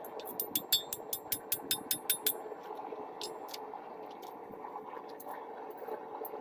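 Hand-hammer blows on hot rebar steel at the anvil: a quick run of about a dozen ringing strikes, around six a second, then a few scattered taps. A steady propane forge burner runs underneath.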